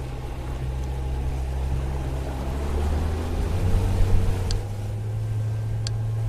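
A low, steady engine-like rumble, with three short high-pitched chirps in its second half.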